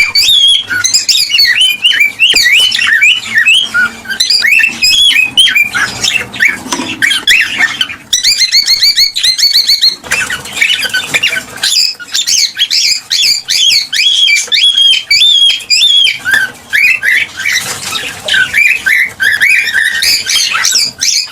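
Cockatiels chirping and squawking in rapid, overlapping calls, with a quick run of evenly repeated high notes about eight seconds in.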